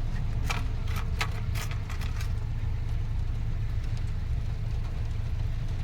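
Steady low motor-like hum, with a few sharp clicks and taps in the first two seconds.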